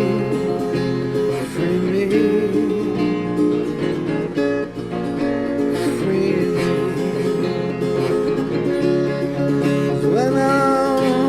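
Acoustic guitar strumming chords while a voice scat-sings a wordless melody, ending on a long held note with vibrato near the end.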